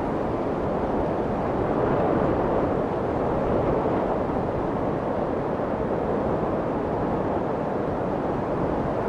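Steady, deep white noise for soothing a crying baby: a low, even rushing sound with little treble, swelling gently now and then.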